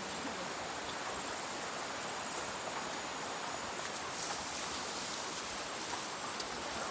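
Steady rush of water falling and flowing at a waterfall, an even unbroken hiss.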